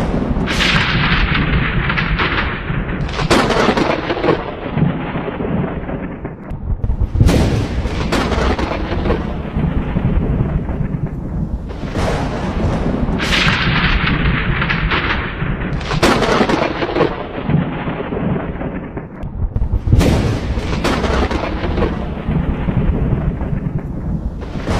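Thunderstorm: a continuous low thunder rumble over steady rain, broken by sharp thunderclaps every few seconds, about eight in all, each dying away over a few seconds.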